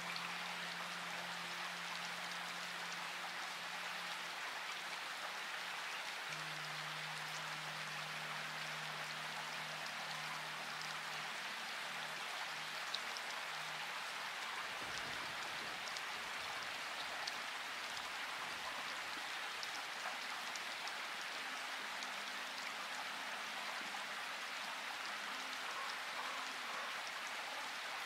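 Steady rain: an even hiss of rainfall with scattered light drop ticks.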